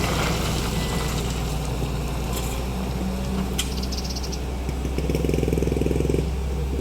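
Engine running steadily with a deep low drone. About five seconds in, a faster rhythmic pulsing joins for about a second.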